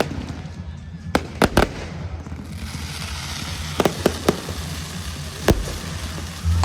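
Fireworks display: sharp bangs of bursting shells, a quick cluster about a second in, three more around four seconds in and a single loud one near the end, with a hiss of crackling stars in between. Music plays low underneath.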